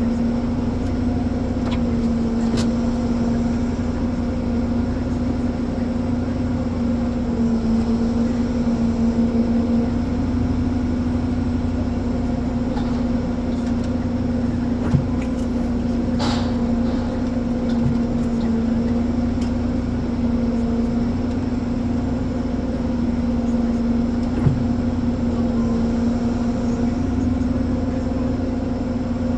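Ponsse Elephant forwarder's diesel engine running steadily: a constant drone with a pitched hum. Two brief clicks sound over it, about halfway through and again later.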